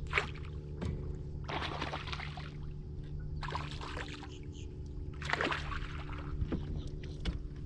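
Water splashing in four short bursts about every second and a half as a hooked bass thrashes at the surface beside a kayak, over a steady low motor hum.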